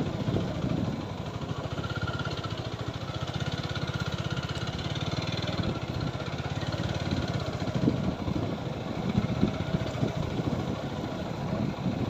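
Single-cylinder engine of a TVS Apache 4V motorcycle running at low speed with a steady, fast, even putter, plus some uneven low rumbling in the later part.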